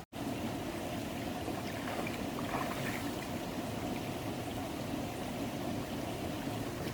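Steady rush of flowing water, with a brief dropout just after the start.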